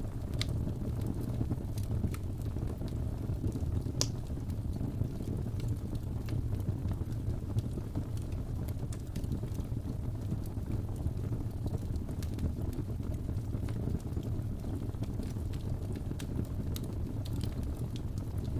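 Wood fire burning with a steady low rumble, scattered sharp crackles and pops throughout, and one louder pop about four seconds in.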